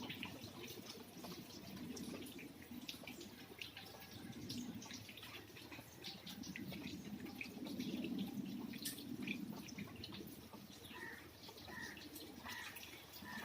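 Rain dripping and pattering: scattered drops tick over a steady low wash of falling water. A few short high notes come near the end.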